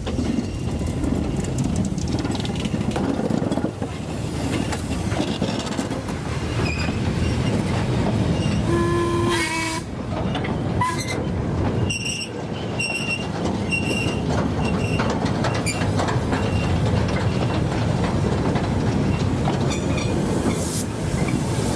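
Steam locomotive and its train running steadily, with a loud, continuous rumble of the engine and wheels on the rails. A brief whistle-like tone sounds about nine seconds in, followed by four short high squeals a few seconds later.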